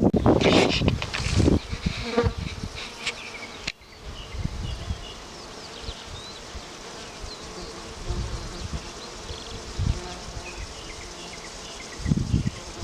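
Bees buzzing around fireweed flowers in a quiet field, with faint high chirps. For the first few seconds and again near the end, loud low rumbling covers the buzzing.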